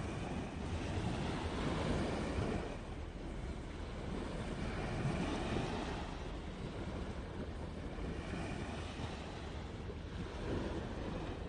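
Steady rushing noise that swells and fades slowly, like wind or surf, with no distinct events.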